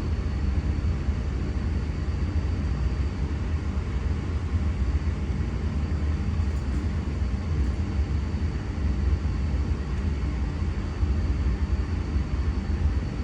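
Steady low rumble of an electric train running, with a faint steady high whine above it.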